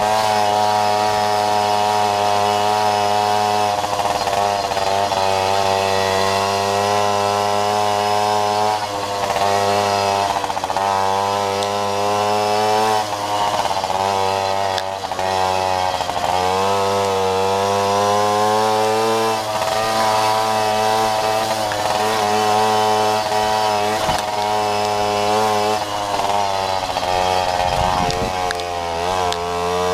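Babetta moped's small two-stroke single-cylinder engine running continuously, its note rising and falling over and over as the throttle is opened and eased off.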